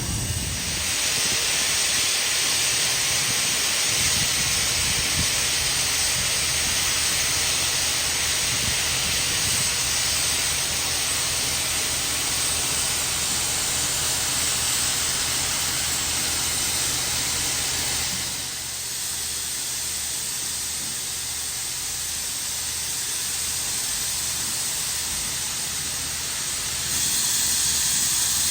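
Steam locomotive 3526 blowing off steam in a loud, steady hiss. The hiss eases about 18 seconds in and comes back strongly near the end.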